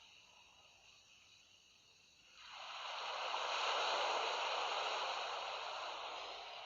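Sea waves on a shore: a soft hiss, then about two and a half seconds in a wave surges in, swells to a peak and slowly draws back.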